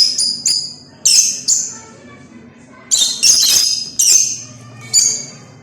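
Birds calling in short, harsh, high-pitched squawks and chirps, about nine in all, some in quick pairs.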